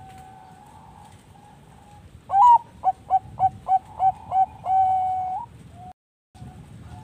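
Zebra dove (perkutut bangkok) singing one full phrase: a loud rising opening note, a quick run of about seven short coos, then one long held coo, over fainter steady cooing behind it.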